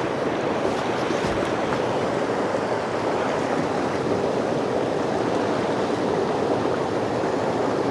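Mountain creek water flowing steadily over rocks, an even, constant rush.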